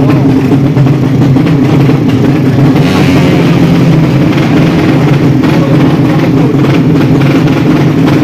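Motorcycle drag-race engines running at a steady, unchanging pitch, loud and constant, with no revving up or down.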